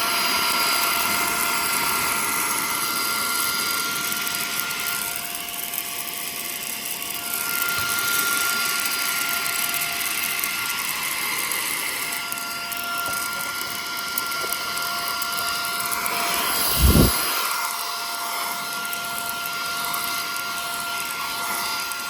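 Cordless handheld mini vacuum cleaner running steadily: a constant high motor whine over the hiss of air being drawn through it. There is one dull thump about three quarters of the way through, and the motor stops near the end.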